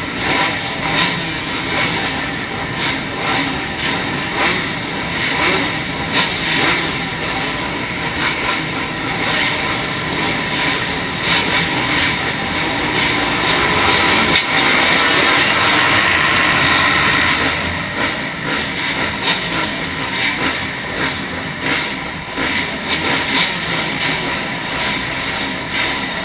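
Motocross dirt bike engines running hard in a race, the revs rising and falling constantly, loudest about halfway through.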